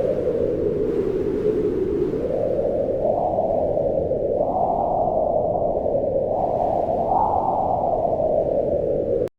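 Wind howling steadily, its hollow whistling tone swelling and sinking in pitch from gust to gust. The sound drops out for an instant just before the end.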